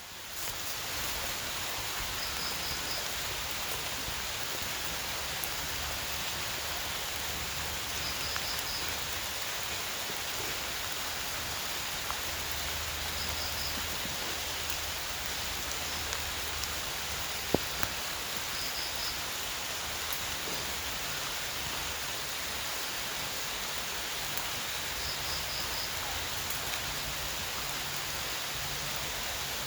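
Steady heavy rain falling, an even hiss. Faint short high chirps recur every few seconds, and one sharp knock comes about two-thirds of the way through.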